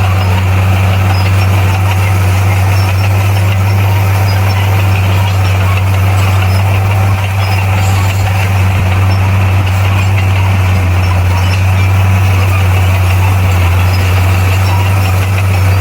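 Heavy diesel engine of a bulldozer running steadily with an unchanging low drone.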